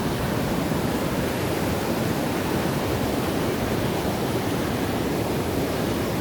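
Steady rushing noise of water pouring through a channel under a bridge, the channel running high after heavy rain.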